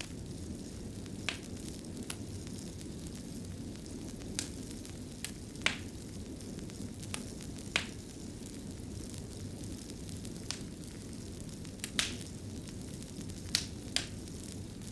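Wood fire burning in a fireplace: a steady low rumble with irregular sharp crackles and pops, about a dozen scattered through.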